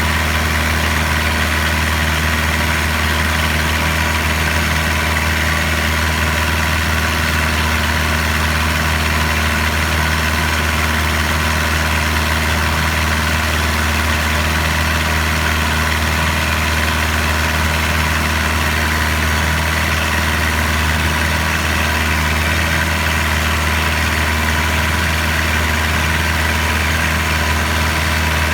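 Boat's engine running steadily at constant speed, a loud even drone with a strong low hum.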